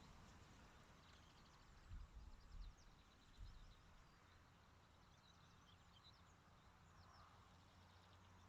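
Near silence, with faint birdsong chirping in the background. A few low, muffled bumps come about two seconds in and again about three and a half seconds in.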